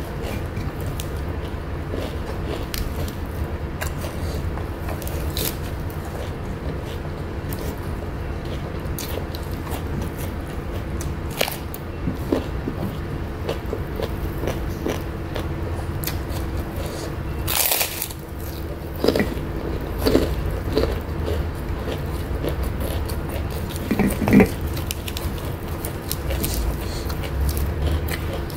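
Close-up eating sounds: biting and chewing a crisp cracker and raw salad vegetables, with scattered crunches, the loudest a little past halfway and again near the end, over a steady low hum.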